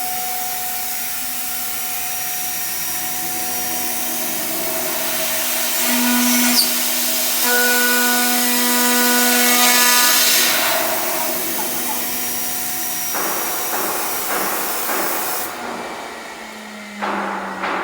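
SKX3+1-CNC-3000 aluminium profile CNC milling machine running: a steady spindle whine with several held tones over a loud hiss while it machines. The hiss drops away about fifteen seconds in.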